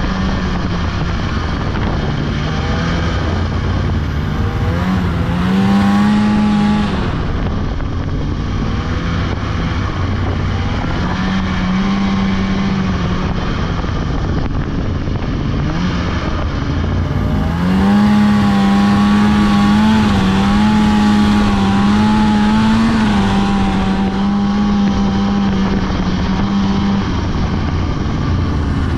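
Polaris 600 two-stroke snowmobile engine running under way, its pitch rising as the throttle is opened about five seconds in, again around eleven seconds, and for a long stretch from about seventeen seconds, where it holds a high, wavering note before easing off near the end.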